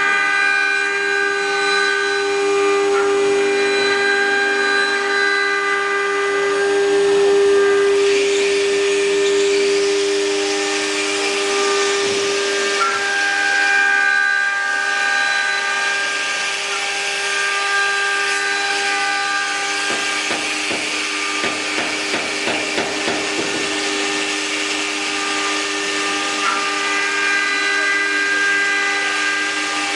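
4-axis CNC wood router running, its spindle giving a steady high whine while the bit cuts wood with a hissing rasp that grows stronger about eight seconds in. A run of quick ticks comes about two-thirds of the way through.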